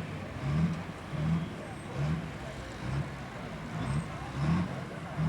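A heavy engine running with an even rhythmic surge, its pitch rising briefly about one and a half times a second.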